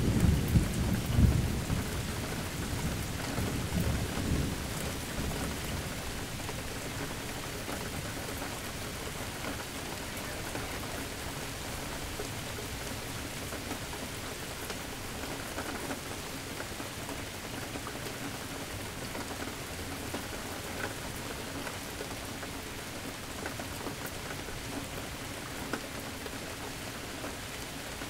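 Steady rain falling, with a thunder rumble at the start that dies away over the first five seconds or so.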